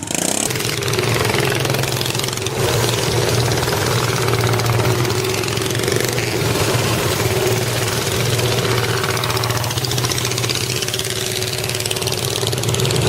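Engine running at a steady idle, its pitch holding even.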